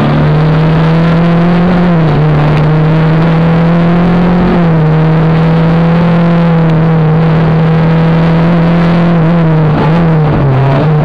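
Rally car engine heard from inside the car, running hard at high revs on a fast stretch of stage. The pitch holds nearly steady with short dips about two and four and a half seconds in, then falls near the end as the car comes off the throttle.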